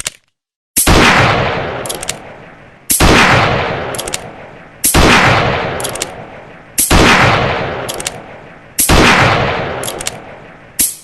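Colt Peacemaker single-action revolver fired five times, about two seconds apart, each shot trailing off in a long echo. Before each shot come a couple of short metallic clicks as the hammer is cocked.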